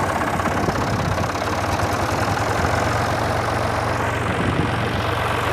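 Tractor engine idling steadily, just after a start.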